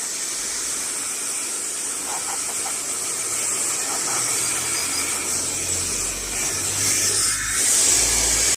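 Hair dryer blowing steadily, drying out the inside of an induction cooker: a continuous airy hiss, with a low rumble joining in and growing louder over the last few seconds.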